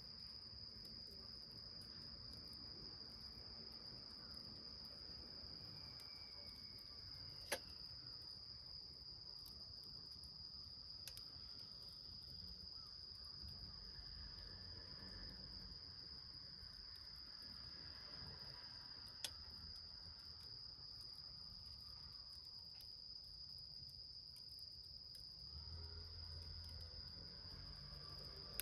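A steady, unbroken high-pitched insect trill, with two sharp pops from the fire in the can, one about a quarter of the way in and one about two-thirds in.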